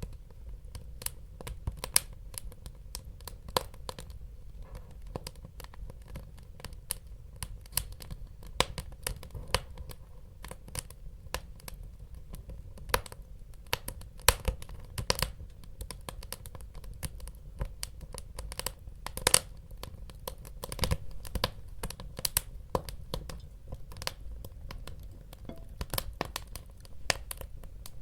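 Wood fire burning in a fireplace: frequent irregular crackles and sharp pops over a low steady rumble of flame.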